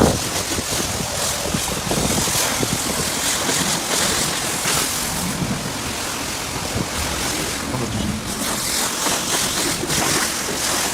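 Self-service car wash pressure washer lance spraying a steady high-pressure jet of water onto a car's body, a continuous hiss that swells and eases a little as the spray moves.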